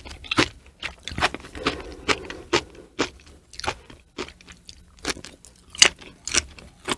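Close-miked chewing of sliced cooked cow udder: repeated crunches about twice a second, one louder crunch near the end.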